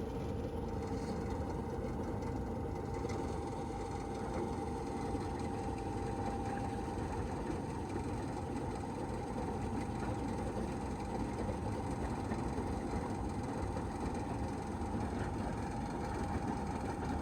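Combine harvester running steadily while unloading grain from its tank, a continuous even machine drone with a steady hum.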